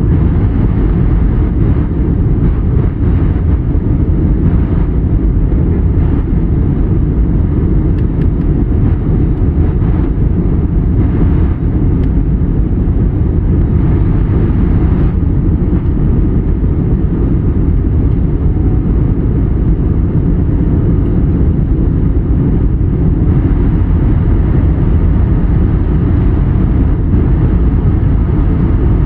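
Steady, loud low rumble of a passenger jet heard from inside the cabin: engine and airflow noise, unchanging throughout.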